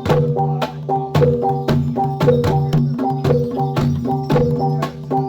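Javanese gamelan music accompanying a jathilan dance: struck pitched metal keys and drum strokes playing a brisk, repeating pattern.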